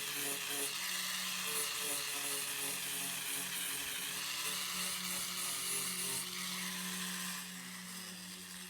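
Power grinder running steadily against RV fiberglass, grinding out a crack, then spinning down with a falling whine near the end.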